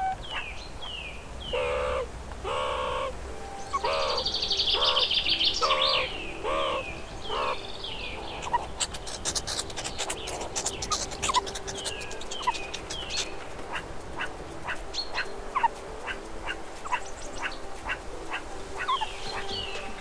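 Mixed birdsong: many short falling chirps throughout, a lower call repeated about every 0.7 s in the first half, and a dense high trill a few seconds in.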